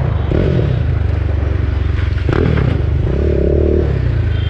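BMW G310R's single-cylinder engine running through an aftermarket full-system exhaust while the bike is ridden, with a brief rattle a little past halfway.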